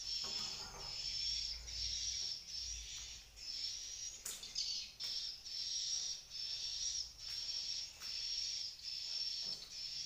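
Swiftlet calls: short high chirps repeating evenly about one and a half times a second, with a single sharp click a little past four seconds in.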